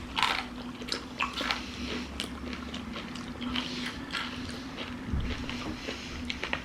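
Biting and chewing crispy fried chicken, the breaded skin crunching in short, irregular crackles, the sharpest right at the start. A faint steady hum runs underneath.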